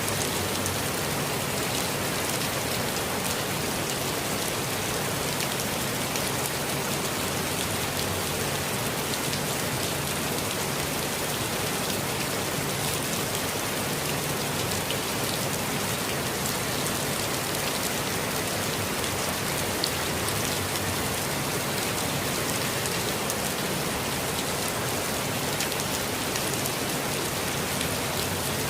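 Steady rain falling in a forest, a constant hiss of rainfall with many fine, close drop ticks on leaves and surfaces.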